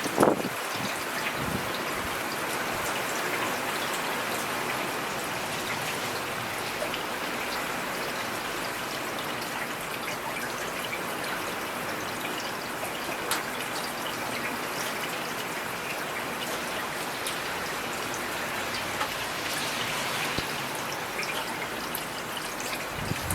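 Steady rain falling, with scattered individual drops heard over an even hiss. A short low rumble and a sharp crack come right at the start.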